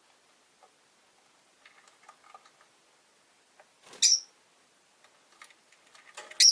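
Rosy-faced lovebirds: a few soft chirps and clicks, then a loud shrill call about four seconds in and another right at the end.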